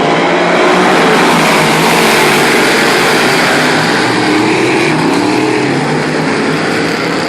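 A field of big-block modified race cars running hard together, many big-block V8 engines at high revs in one loud, steady din, with engine pitch rising and falling as cars go by.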